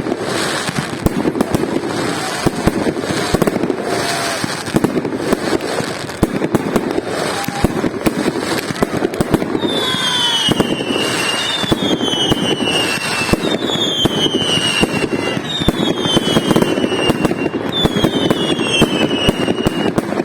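Fireworks salute: dense crackling and popping reports throughout. From about halfway, a high falling whistle repeats at a steady pace, roughly once every second and a bit.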